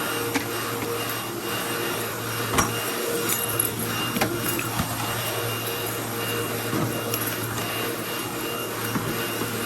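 Vacuum cleaner running steadily, with a few short knocks and clicks as it is pushed around.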